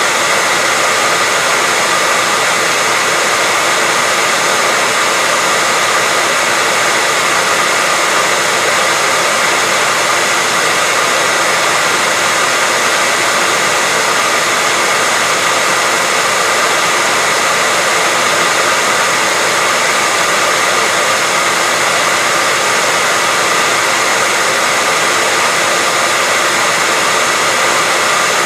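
Hair dryer running continuously at a steady speed: an even rush of air with a faint steady whine.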